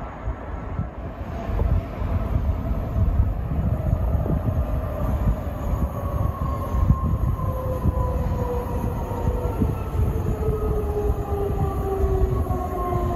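Electric passenger train approaching on the track, a steady rumble with several whining tones that glide slowly down in pitch through the second half.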